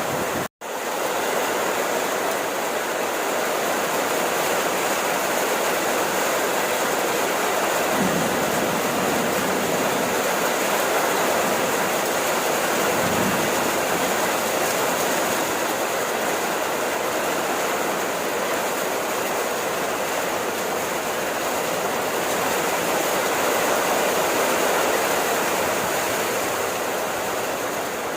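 Steady rainfall, an even hiss with no distinct drops standing out. The sound cuts out for an instant about half a second in.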